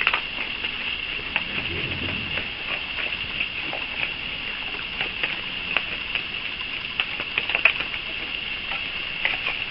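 Raccoon crunching sunflower seeds: irregular small cracks and crunches of the shells.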